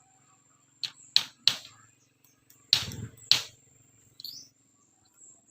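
Sharp knocks of work on bamboo: five strikes in about two and a half seconds, the fourth one heavier and deeper.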